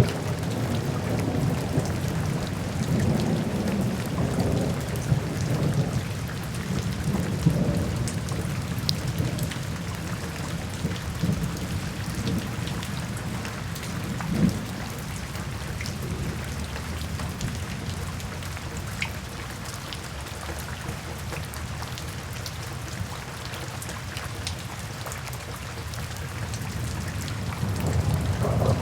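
Steady rain falling, with low thunder rumbling through the first half, easing off, then building again near the end.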